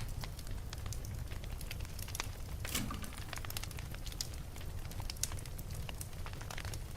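Wood fire burning in a fireplace: a steady low rumble with irregular crackles and pops, one louder pop a little under three seconds in.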